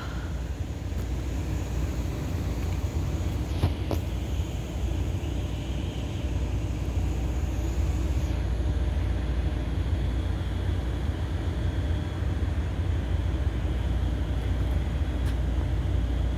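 Steady low outdoor background rumble, with a faint click about four seconds in.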